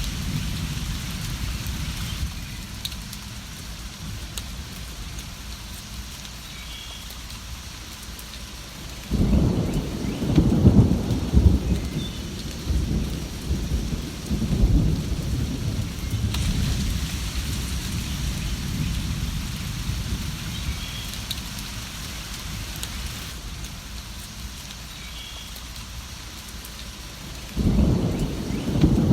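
Steady rain with thunder: a low rumble breaks in suddenly about a third of the way through and rolls on for several seconds, and another rumble starts near the end.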